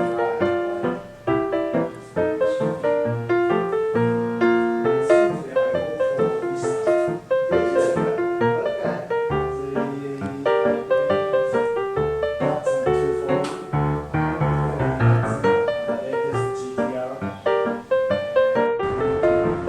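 Background music: piano playing a lively melody with chords.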